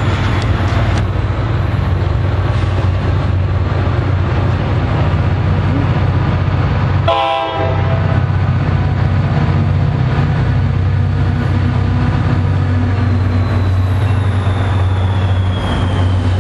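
Diesel commuter locomotive passing close with its engine running as a steady low drone, and a short horn toot about seven seconds in. A thin falling whine comes near the end.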